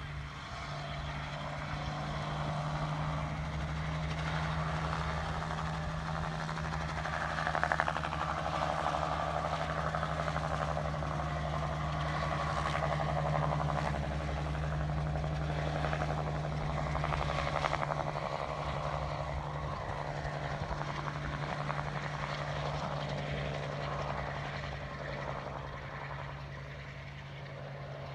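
Crop-dusting helicopter's engine and rotor running in a steady drone, swelling a few seconds in and easing off near the end.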